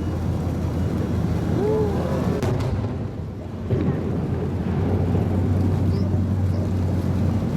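Fireworks display heard from the ground: a continuous low rumble of booming shells rolling together, with wind buffeting the microphone.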